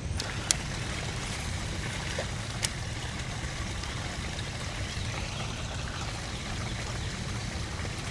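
Steady running water trickling and pouring, over a low rumble, with two sharp clicks in the first few seconds.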